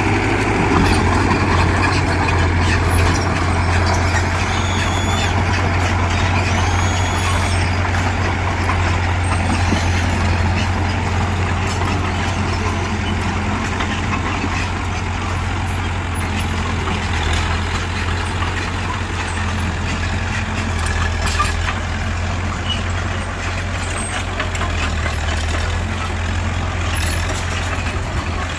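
Heavy diesel earthmoving machinery running steadily, a low drone that holds an even level and pitch.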